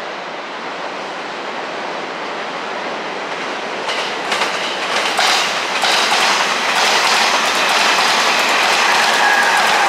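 Electric train running past, growing steadily louder. From about four seconds in its wheels clatter over rail joints and points, and a thin high tone joins near the end.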